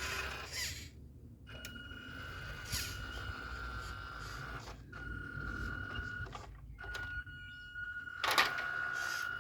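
Electric drive motor and speed controller of a radio-controlled model tractor whining with a steady high tone over gear rumble. It cuts out briefly three times, and a few sharp clicks come through, the loudest near the end.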